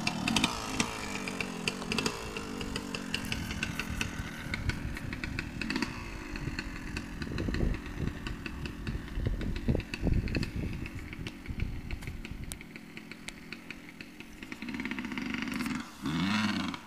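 Small 125 cc off-road motorcycle engine running and being revved, its pitch rising and falling repeatedly. A short, sharp rev near the end cuts off suddenly.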